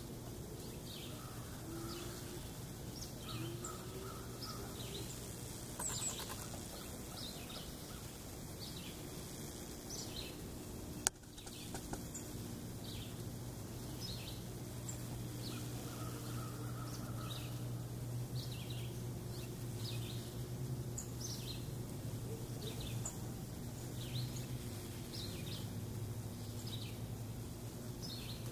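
Songbirds chirping and calling repeatedly, with a couple of short trilled phrases, over a steady low hum. A single sharp click about eleven seconds in.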